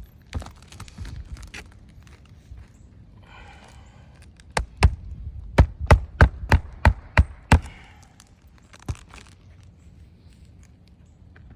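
Hammer blows driving roofing nails into an asphalt three-tab shingle: a single strike near the start, then a quick run of about ten sharp blows a few seconds in, and one more strike later.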